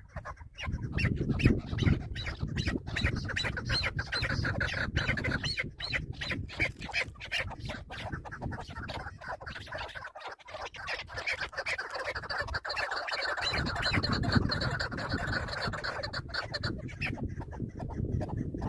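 Chukar partridges calling: a fast, continuous chatter of repeated clucking notes, with a low rumble underneath.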